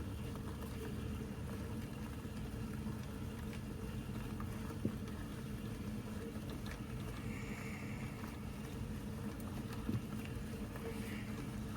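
Steady low hum with two faint knocks, about five seconds in and again about ten seconds in.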